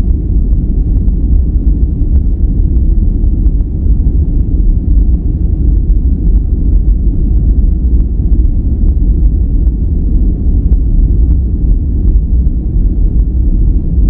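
Steady, unbroken relaxation noise track, deep and rumbling rather than hissy, with its weight in the low end. It sounds closer to brown noise than to true white noise, with a few faint ticks above it.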